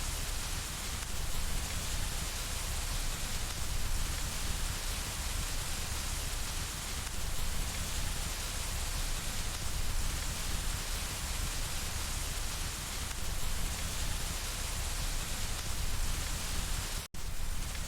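Steady rain falling and pattering on window glass, an even hiss with a deep rumble underneath. Near the end the sound cuts out abruptly for a split second, then resumes.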